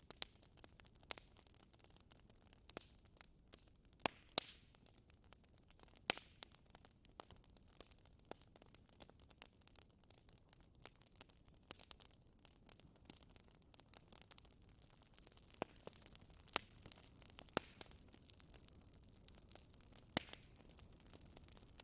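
Fire burning in a fireplace, crackling: irregular sharp pops and snaps, a few louder than the rest, over a faint steady hiss.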